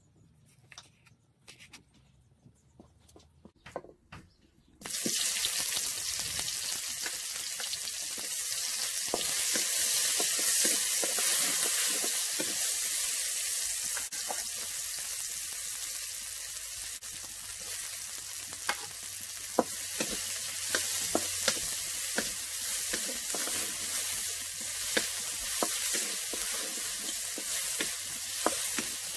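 Faint knife taps on a wooden chopping board, then about five seconds in a sudden loud sizzle as sliced red onion goes into hot oil in a steel wok. The frying hiss goes on steadily, with a wooden spatula stirring and scraping against the wok.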